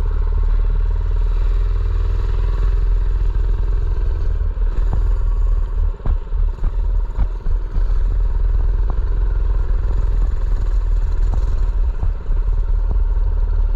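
Mini bike's small engine running while riding, with heavy wind rumble on the microphone and scattered rattles and knocks from the bike over rough ground. The engine note holds steady for the first few seconds, then drops off briefly around six to seven seconds in before picking back up.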